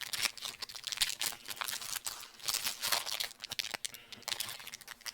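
Chocolate-bar wrapper crinkling and crackling as it is handled and opened: a fast, irregular run of small crackles.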